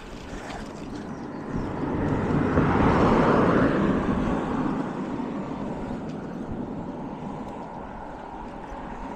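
A vehicle passing: its noise swells to its loudest about three seconds in and then fades away, over steady background noise.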